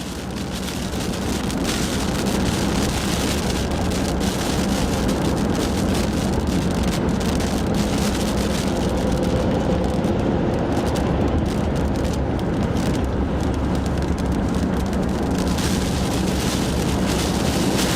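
Car driving at highway speed: a steady mix of road and engine noise with a low hum, fading in over the first couple of seconds.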